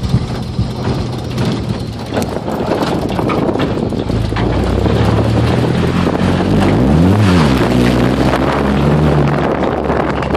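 Ford Ranger pickup's engine running loud with its exhaust off while the truck drives. About seven seconds in, the revs climb and then drop again.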